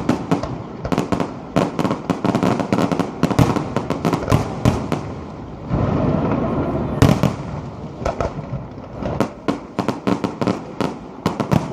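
Fireworks display: a rapid, irregular run of shell bursts and crackling, with the loudest bang about seven seconds in.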